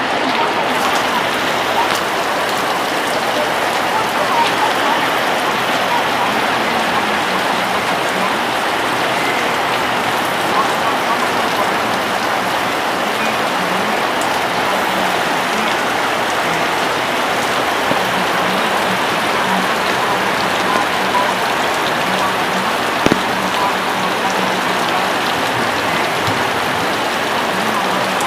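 Steady rain falling: an even, fairly loud hiss of drops with no let-up, and one sharper tap late on.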